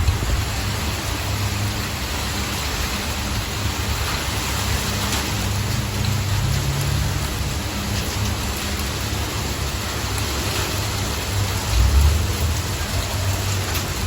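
Heavy sleet and rain falling, a steady hiss with faint scattered ticks. Under it runs an uneven low rumble that swells briefly near the end.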